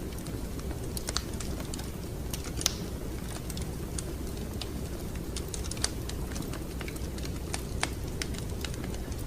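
Wood fire crackling: irregular sharp pops and snaps over a steady low rumble, with a louder pop about three seconds in and another near six seconds.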